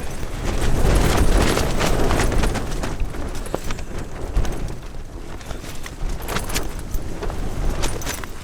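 Strong mountain wind gusting, with a deep rumble of wind on the microphone and rapid, irregular flapping and snapping of fabric. The gust is strongest about a second in and eases off after the middle.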